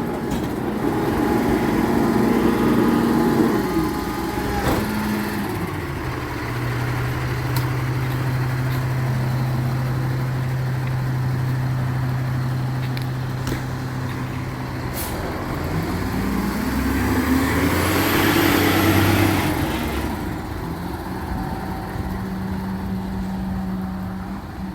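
Recycling truck's engine running, dropping in pitch about five seconds in, then revving up again with a hiss near the peak about three-quarters of the way through before settling back.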